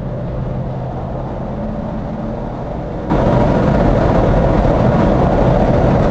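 Truck engine and road noise running steadily. It gets suddenly louder about three seconds in.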